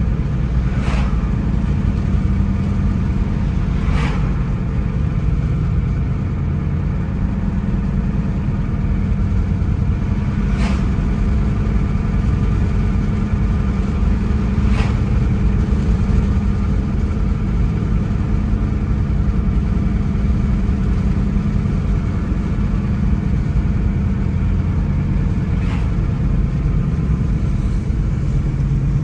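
A car driving on a road: steady engine and tyre rumble, with a few brief sharp clicks now and then.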